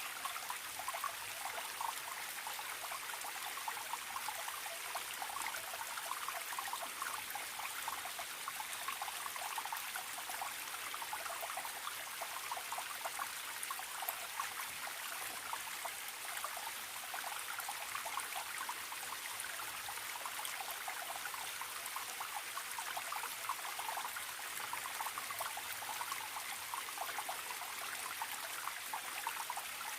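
Small stream trickling and gurgling, a steady babble of running water with many small splashes.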